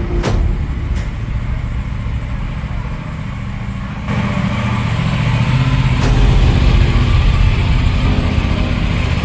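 Aprilia RS 457's parallel-twin engine running at idle, with a sharp click about a quarter second in. It gets louder from about four seconds in.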